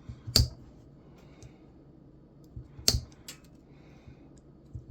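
Hand cutters snipping metal off brass scrap parts, making a few sharp snaps: one about half a second in and two close together near three seconds in.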